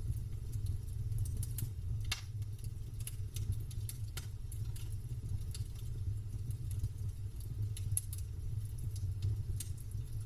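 Campfire crackling: irregular sharp pops and snaps of burning wood, a louder pop about two seconds in, over a steady low rumble.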